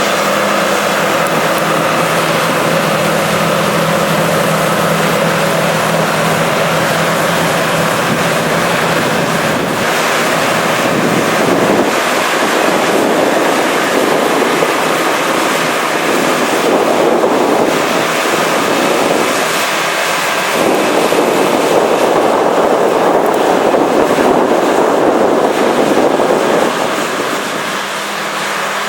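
John Deere 9660STS combine harvester running, its engine giving a steady hum under a broad rushing noise. The rushing noise swells in two long stretches in the second half.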